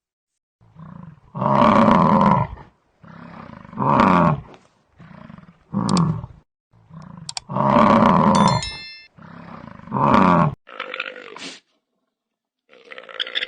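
A large animal calling over and over: about six loud, pitched calls, each preceded by a softer, shorter drawn-in sound, in a steady alternating rhythm.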